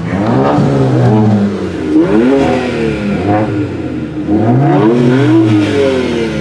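Car engine with its muffler deleted and exhaust straight-piped, revved up and falling back about four times, the last rev held longest.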